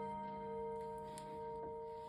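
Seth Thomas electric clock's chimes ringing on, several notes held together and slowly dying away after the last strikes, with a couple of faint clicks from the movement.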